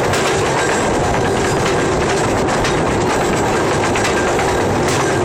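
Train running along the track: a steady loud rumble, with the wheels clicking irregularly over the rail joints.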